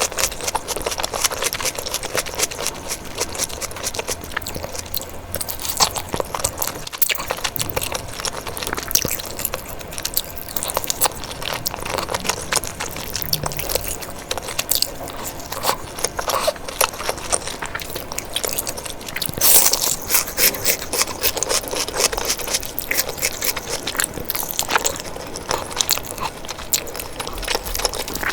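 Close-miked eating sounds: a person chewing and biting food, with a steady stream of small wet clicks and crunches.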